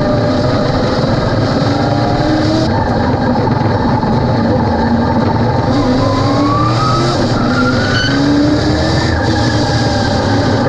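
Late model stock car's V8 engine running hard at speed on track. Its pitch dips about four seconds in, as when lifting for a corner, then climbs steadily under acceleration through the rest.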